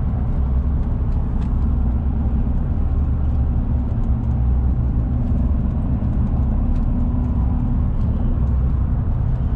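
Steady low rumble of a motor vehicle running, even in level with no revving.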